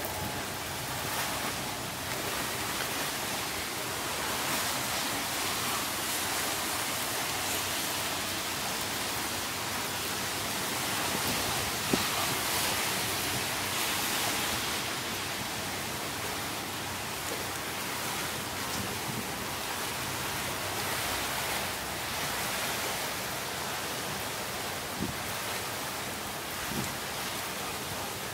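Steady hiss of rain falling outdoors, with a single sharp tick near the middle and a couple of fainter ones later.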